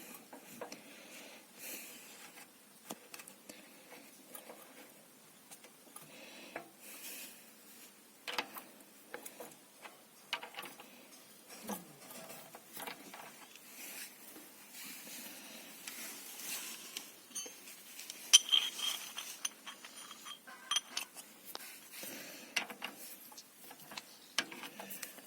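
Scattered metallic clinks and clicks of hand tools against engine parts during a repair, with a sharper ringing clink about 18 seconds in.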